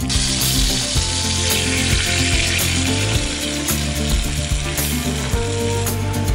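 Bacon, sausages, mushrooms and eggs sizzling in a carbon steel frying pan over a campfire, a dense frying hiss that thins out about five seconds in. Steady background music runs underneath.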